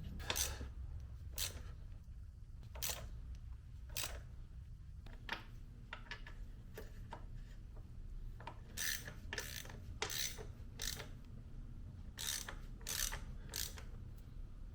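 Hand ratchet clicking in short strokes, tightening a motorcycle foot-peg mounting bolt, with a series of sharp clicks that bunch closer together about two thirds of the way through.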